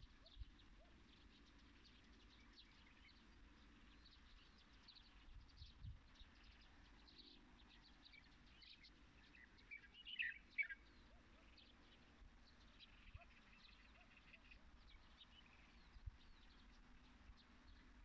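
Faint chorus of small birds chirping and calling, with many short high notes throughout. A louder burst of chirps comes about ten seconds in, and a short trill of repeated notes follows a few seconds later.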